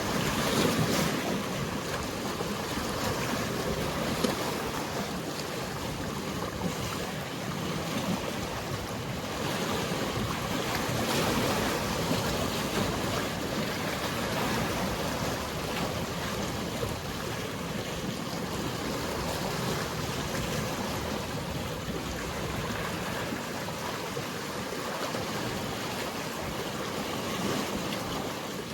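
Mediterranean sea waves washing: a steady wash of surf that swells and eases, with a brief sharp splash or knock about four seconds in.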